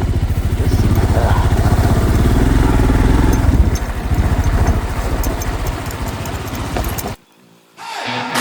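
Royal Enfield Scram 440's single-cylinder engine running with an even low pulse; it cuts off suddenly about seven seconds in. Guitar music starts just before the end.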